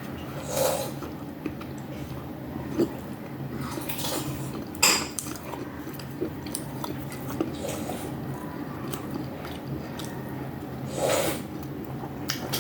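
A person eating at close range: chewing, with a few sharp clicks and knocks, one of them louder about five seconds in, over a steady low hum.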